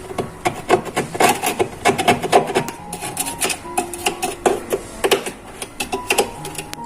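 A quick, irregular run of clicks and knocks from hard objects being handled, densest in the first few seconds and thinning out after.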